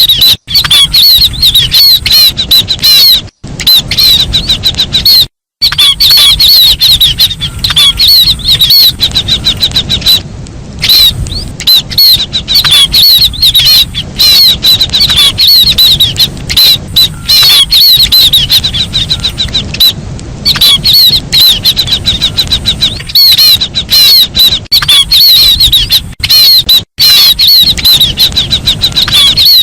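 Looped recording of the call of the bird known in Vietnamese as chim ri (cu lý): rapid, high-pitched chirps repeated continuously, played very loud as a hunting lure call. A few brief gaps break it.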